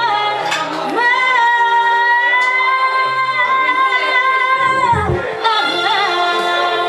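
Live Latin music from a duo: a singer holds one long high note for about four seconds over a quiet accompaniment. A brief low thump follows, and the fuller accompaniment picks up again.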